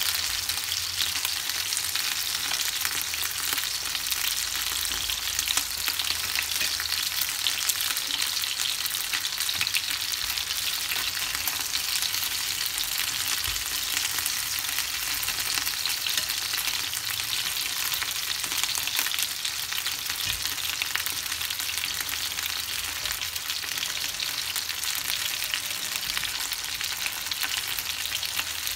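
Chicken wings sizzling as they fry in oil in a nonstick frying pan: a steady hiss dotted with many small pops.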